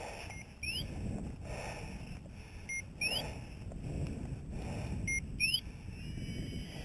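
Electronic beeper collar on a hunting dog sounding a repeating two-part signal, a short flat beep followed by a quick rising chirp, about every two and a half seconds. Low rustling runs underneath.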